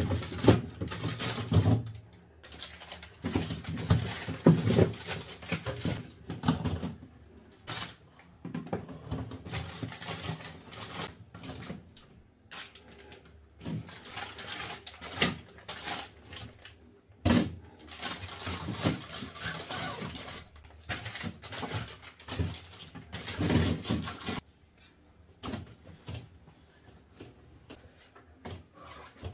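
Irregular rustling with sharp clicks and knocks of groceries being handled and moved about. The busy handling stops about 24 seconds in and is followed by a few faint knocks.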